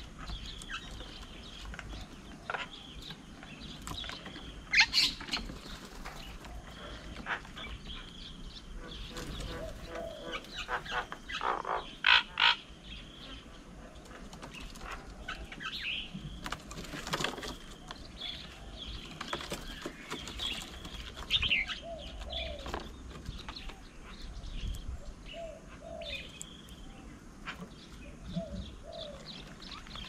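Birds at a bird table: scattered brief wing flaps and taps, with chirps and short calls throughout.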